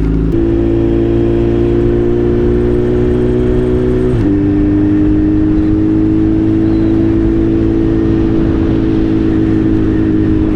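Suzuki Hayabusa's inline-four engine pulling steadily while riding, with wind rush. The engine note changes just after the start and dips briefly about four seconds in, then holds level.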